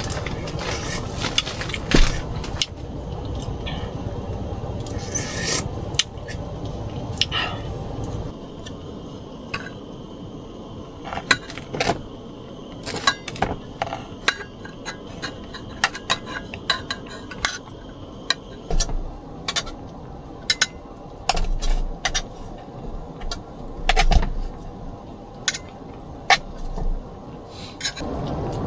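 Irregular sharp clinks, clicks and scrapes of hard objects knocking together, like utensils against pots or dishes, over a steady hiss that drops away after about eight seconds.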